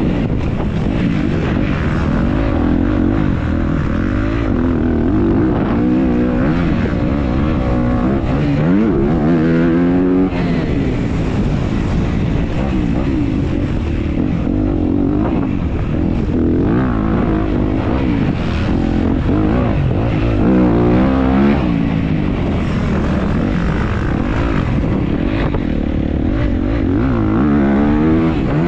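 Off-road dirt bike engine revving up and falling back again and again as the rider works through the gears, heard from a helmet-mounted camera, with wind and track noise underneath.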